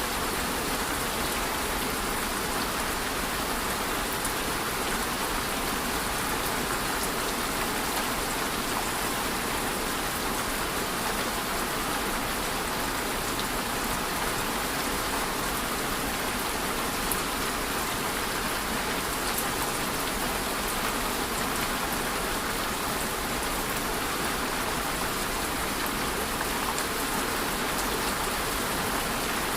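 Steady rain falling, a continuous even hiss of rain with fine scattered drop ticks, unchanging throughout.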